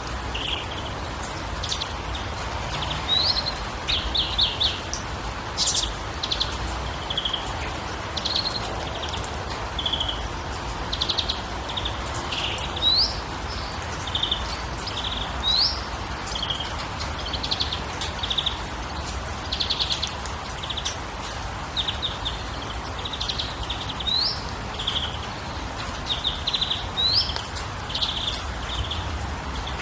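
Birds calling repeatedly: many short chirps, quick rising whistles and rapid trills, over a steady background hiss.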